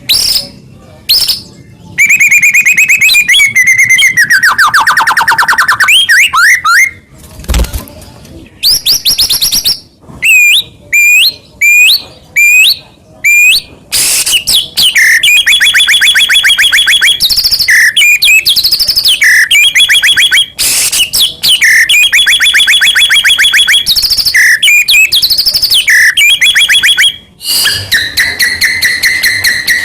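White-rumped shama (murai batu) singing loudly and without a break in its song: fast rattling trains of repeated notes, clear whistles and sharp upswept calls, phrase after phrase with short pauses between. A vigorous full song, packed with mimicked fill phrases (isian), of the kind played to provoke captive shamas to sing.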